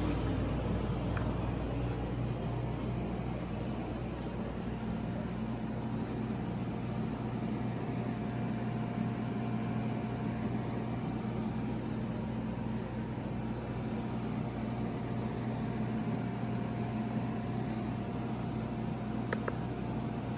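Vacuum cleaner motor running steadily: a constant hum with a thin whine above it. Right at the start the falling pitch of another motor spinning down dies away.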